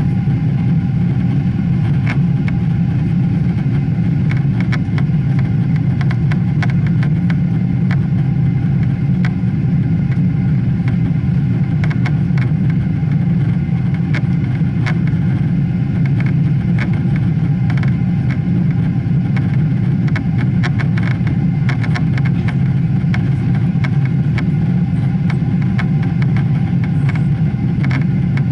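Inside the cabin of a Boeing 777 in flight: the engines and airflow make a loud, steady, deep rumble with a constant hum above it. Light clicks and rattles are scattered throughout.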